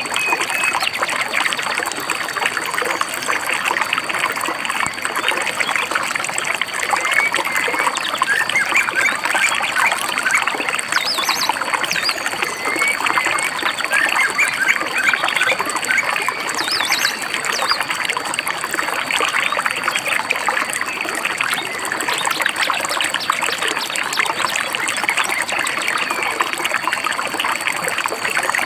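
Stream babbling and trickling steadily, with small birds chirping now and then over it.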